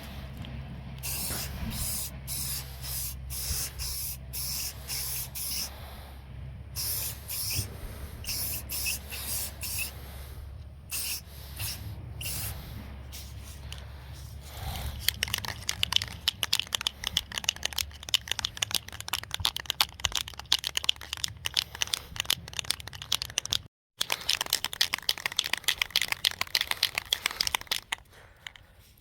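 Short hissing bursts, about two a second, over a steady low hum, then a long stretch of rapid scratchy rubbing that stops near the end.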